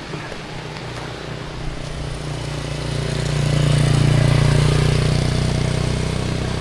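A motor vehicle's engine running with a low steady hum that grows louder to a peak about four seconds in, then eases off, as if passing by, over a steady rushing hiss.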